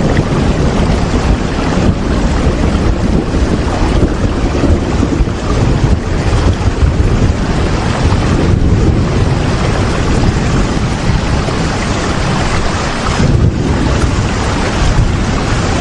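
Steady, heavy rain: a constant rushing noise with a strong deep rumble underneath and no breaks.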